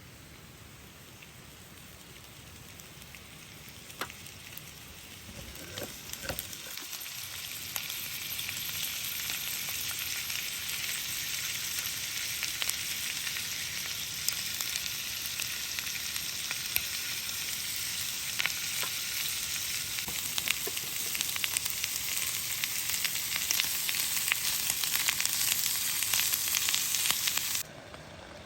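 Chicken gizzards frying in olive oil in a hot sandwich maker, sizzling with scattered pops of spattering oil. The sizzle swells a few seconds in, grows steadily louder, and cuts off suddenly near the end.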